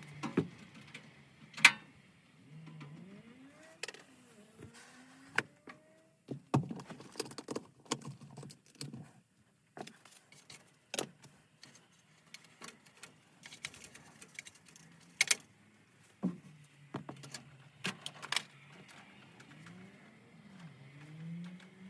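Scattered clicks, clinks and knocks of metal parts and hand tools being handled, irregular and uneven in loudness, over a low hum that comes and goes and sometimes wavers in pitch.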